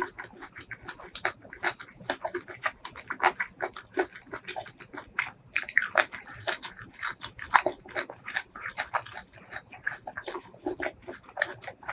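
Close-miked eating of spicy braised seafood: chewing and biting, with rapid wet smacking and crunchy clicks several times a second.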